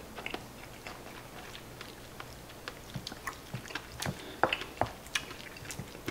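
Close chewing of a mouthful of tenshinhan, soft crab-stick omelette over rice, with small wet mouth clicks. About four seconds in, a spoon scoops in a ceramic bowl, giving a few sharp taps and scrapes.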